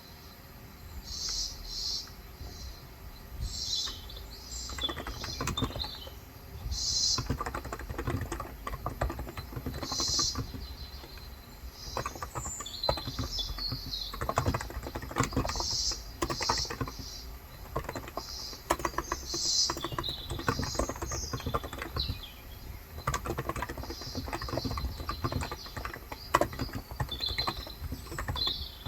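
Typing on a Cox Endeavor electrocapacitive (Topre-style) 35 g tenkeyless keyboard: key strokes in quick bursts with short pauses, starting about five seconds in. Small birds chirp repeatedly in the background throughout.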